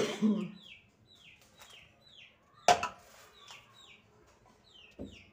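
A small bird chirping over and over in the background, short falling notes about two a second. A sharp click about halfway through and a dull thump near the end.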